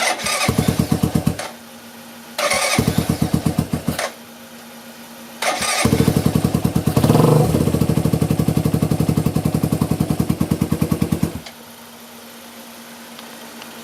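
Newly rebuilt 200cc engine of a Suzuki GS125-based cafe racer firing in three runs, about a second, then under two seconds, then about six seconds, dying back to quiet between them. It is running cold on its first start after the rebuild, with the carburettor not yet set.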